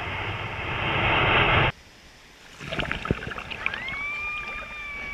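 Ocean surf and wind rushing on the microphone, cutting off abruptly under two seconds in. A few soft knocks and a steady whistle-like tone about a second and a half long follow.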